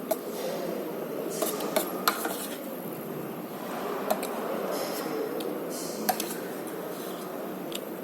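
Cutlery clinking against a plate while eating, a handful of short sharp clicks spread over a few seconds above a steady background hum.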